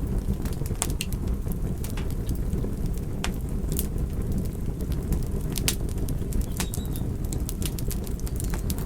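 Wood fire crackling: irregular sharp pops and snaps scattered over a steady low rumble of burning.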